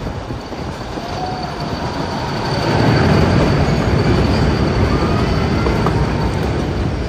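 Metre-gauge mountain-railway train running through a tunnel, heard from an open carriage door: wheel and carriage rumble echoing off the tunnel walls, growing louder about two and a half seconds in. A thin steady high wheel squeal runs over it.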